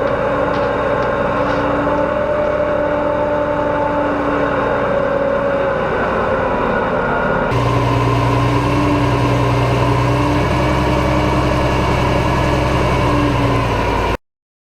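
Deutz 8006 tractor's air-cooled six-cylinder diesel engine running at steady speed. The sound changes abruptly about halfway through, with a stronger low note, and then cuts off suddenly shortly before the end.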